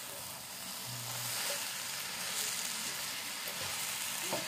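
Grated carrots and sugar sizzling in ghee in a frying pan: a steady hiss that grows a little louder about a second in. A spatula starts stirring the sugar in near the end.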